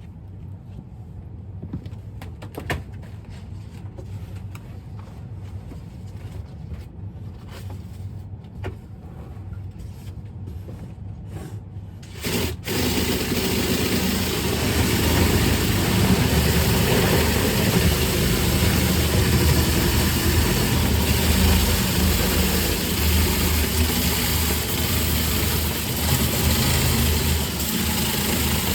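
Low hum with scattered knocks and clicks, then about twelve seconds in a motor starts suddenly and runs loudly and steadily: dryer-duct cleaning equipment being run.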